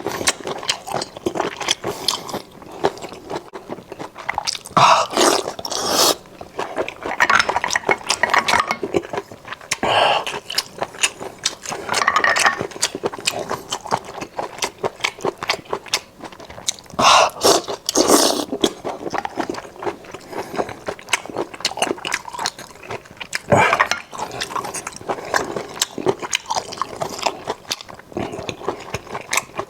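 Close-miked mouth sounds of a person biting and chewing honey-glazed sea snails. Many short clicks run throughout, with a few louder bursts.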